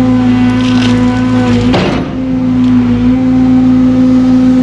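Construction machine's engine running steadily at a constant speed, with a brief noisy burst about two seconds in.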